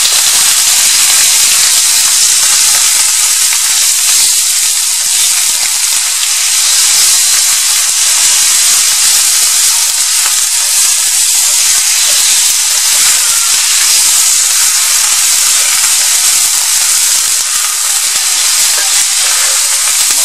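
Sliced raw chicken sizzling loudly in hot vegetable oil with fried garlic in a frying pan, a steady hiss as it is stirred with a spatula.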